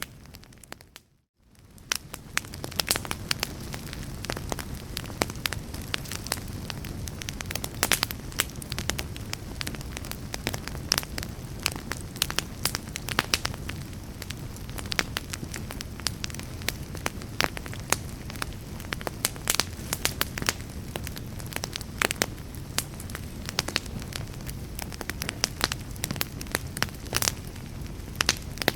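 Wood fire in a fireplace crackling, with many irregular sharp pops over a steady low rumble. The sound drops out briefly about a second in, then resumes.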